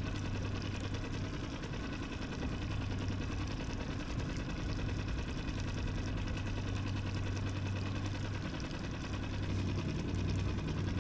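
A small sailboat's auxiliary engine running steadily at low speed under way.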